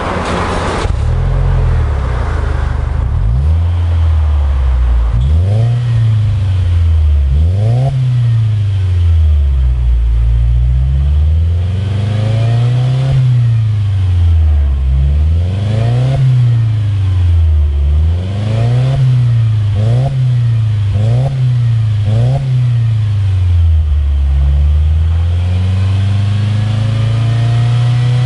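Subaru Levorg 1.6GT-S's turbocharged 1.6-litre flat-four engine breathing through a Kakimoto Regu.06&R aftermarket exhaust with a single centre silencer. It idles, then is revved in a string of about ten quick throttle blips that each rise and fall in pitch. It settles back to idle and ends with a slower, longer rev.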